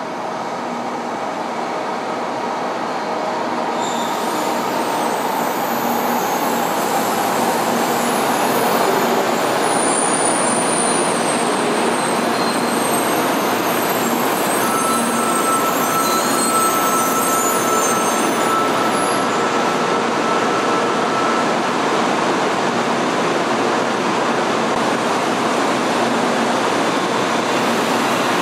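N700 series Shinkansen train arriving at a station platform: a steady rushing of wheels and running gear that builds over the first several seconds and then holds. Faint high squeals come through in the middle.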